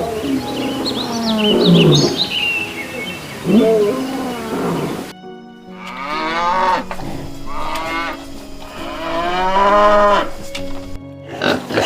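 Animal calls: a few gliding calls with high chirps above them, then, after an abrupt change about five seconds in, a run of drawn-out mooing calls from cattle.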